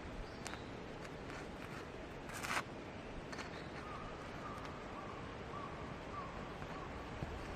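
Quiet outdoor ambience with a few soft clicks and a brief rustle about two and a half seconds in, then a faint, thin wavering call through the middle.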